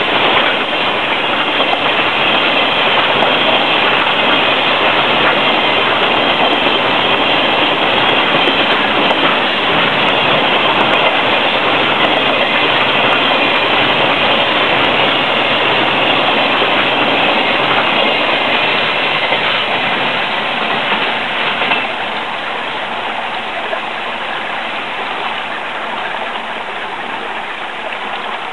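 Container freight wagons of a long freight train rolling past close by, their wheels running steadily on the rails. The noise drops a step about 22 seconds in and then eases off as the last wagons go by.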